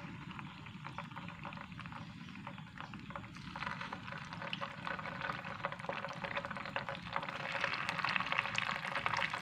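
Hot oil sizzling and crackling as coconut-coated beef satay skewers fry in a pan. It gets louder about three and a half seconds in and again near the end, as a second and then a third skewer go into the oil.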